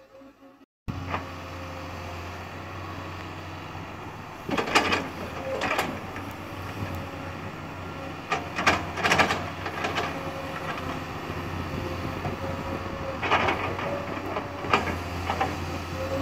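Sunward excavator's diesel engine running steadily, with several scrapes and clanks of the bucket working the coal stockpile, the loudest bunched about a third of the way in and around the middle.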